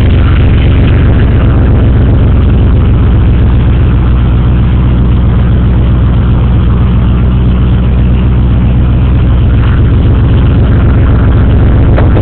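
1995 Ford F-150 SVT Lightning's 5.8-litre V8 idling steadily, loud and low-pitched, with no revving.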